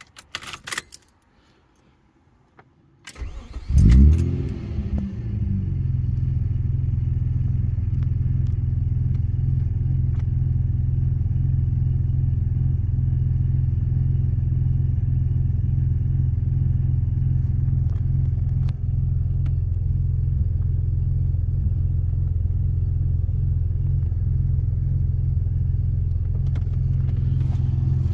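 Ignition keys jangle, then a Mazda 323F V6 engine cranks briefly, fires about four seconds in with a short rev flare, and settles into a steady idle, heard from the driver's seat.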